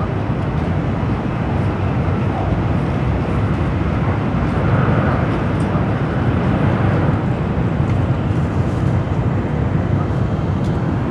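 Steady running noise heard inside the passenger car of an N700A Shinkansen train travelling at speed: a low, even rumble with a rush of air. It swells a little about five seconds in.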